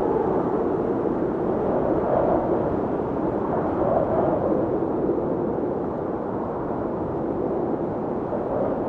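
Howling blizzard wind, a steady, low-pitched rushing with slow swells in strength.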